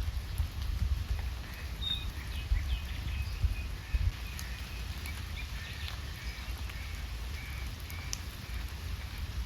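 Steady rain with small birds chirping in short, repeated calls, over a low rumble.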